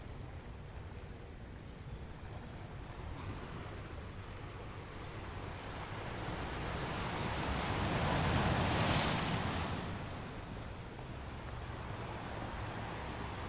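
Caribbean Sea surf: a wave builds, breaks with a rushing swell about two-thirds of the way through, then washes back, over a low steady rumble of the sea.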